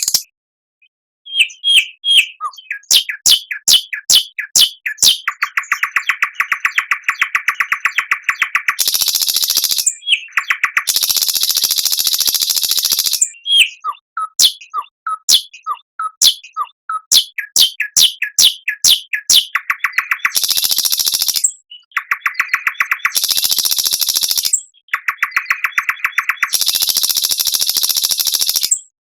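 A songbird singing an elaborate song: after a short pause, a quick series of sharp chirps, then long, very fast trills that alternate several times with harsh, high, hissing buzzes.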